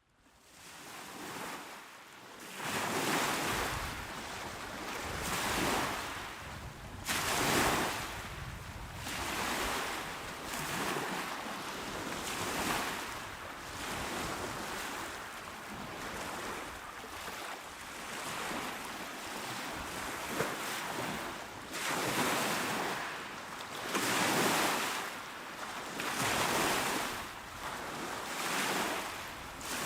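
Calm waves breaking and washing onto a shore: a continuous rush of surf that swells and eases every couple of seconds, fading in over the first few seconds.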